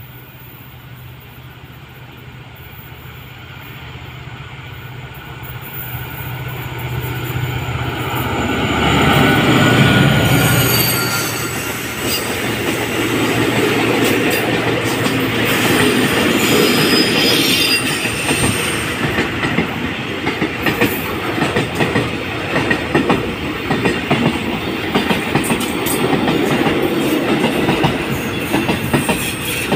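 A QSY diesel-electric locomotive hauling a container freight train approaches and passes. The engine's low drone grows steadily louder to a peak about ten seconds in, with a high squeal from the wheels on the curve. Then the loaded container wagons roll past with a steady, rhythmic clickety-clack of wheels on the rails.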